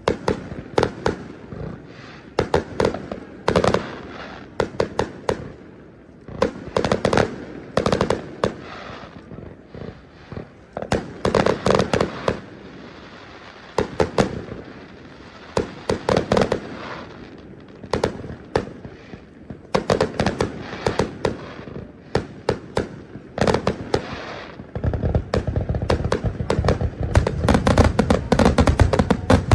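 Aerial fireworks show: volleys of sharp bangs and crackles in clusters every second or two. Near the end they merge into a dense, continuous barrage over a low rumble.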